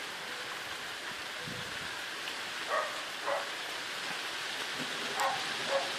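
Heavy rain falling steadily, with four short barks in two pairs, about three seconds in and again near the end.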